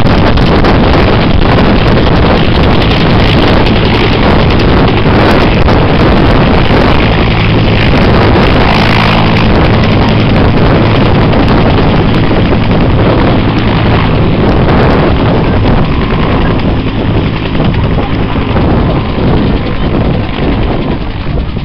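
Helicopter running close by, loud, with heavy wind buffeting the microphone; the noise eases somewhat after about sixteen seconds.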